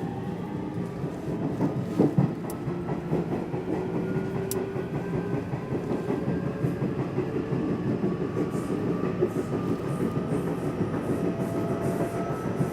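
Nishitetsu Tenjin-Ōmuta Line electric train running, heard from inside the car: a steady rumble of wheels on the rails with a faint whine, and a sharp knock about two seconds in.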